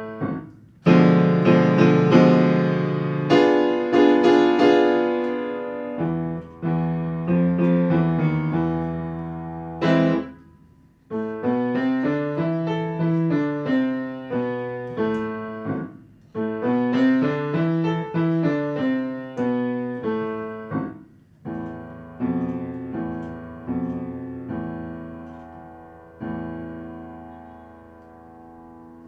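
Piano playing a short, eerie-themed teaching piece in phrases of struck notes and chords that ring and decay, with a brief pause about ten seconds in. It ends on a held chord that fades away.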